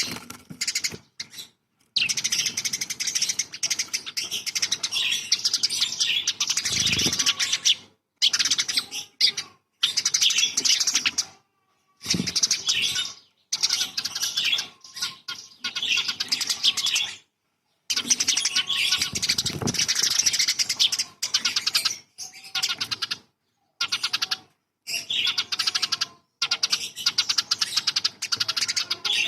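Recorded songbird song: fast, dense chattering and trilling phrases, high-pitched. The phrases are cut off abruptly by short silent gaps, as in an edited, looped masteran track.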